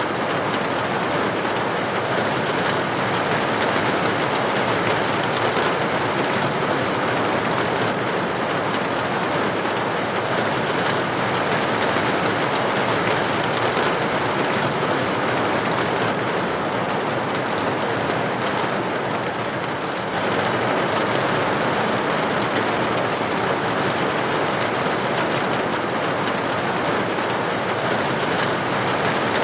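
Steady rain pattering on window glass, an even wash of drops that dips slightly for a moment about twenty seconds in.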